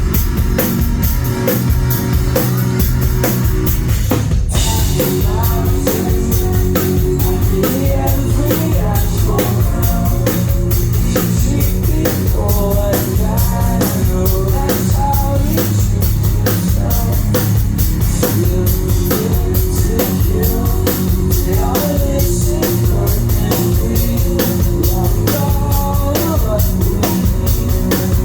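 Live rock band playing loud, with drum kit, bass and guitars. There is a brief break in the music about four seconds in before the full band comes back in.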